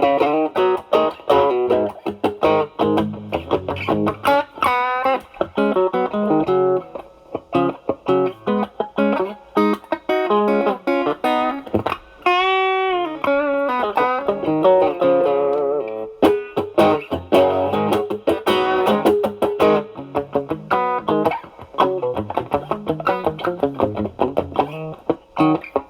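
Stratocaster played through an Ibanez Tube Screamer Mini overdrive pedal set at about 10 to 11 o'clock on the drive, into a Marshall Valvestate amp's clean channel: overdriven lead lines of quickly picked notes, with one held note shaken with vibrato about halfway through.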